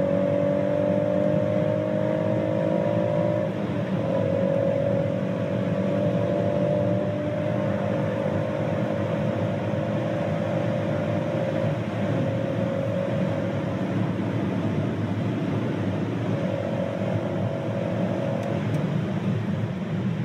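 Turbocharged B58 3.0-litre straight-six of a JB4-tuned manual BMW M140i accelerating at speed, heard from inside the cabin over steady tyre and wind noise. The engine note climbs slowly, dips briefly about three and a half seconds in, then holds roughly level.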